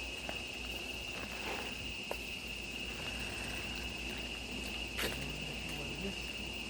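Steady high-pitched drone of crickets or similar insects, with a few short clicks and ticks, the sharpest about five seconds in.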